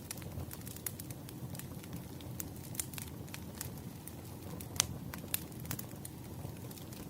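Firewood burning, crackling with irregular sharp pops over a low steady rumble; one louder pop about five seconds in.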